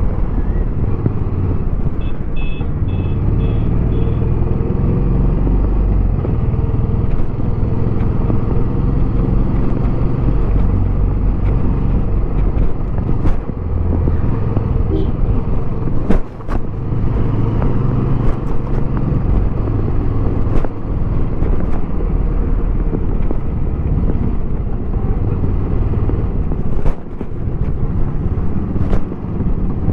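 Royal Enfield Bullet 350X's single-cylinder engine running through its stock exhaust while riding, a steady low thumping with wind on the helmet microphone. About two seconds in there are a few short high beeps.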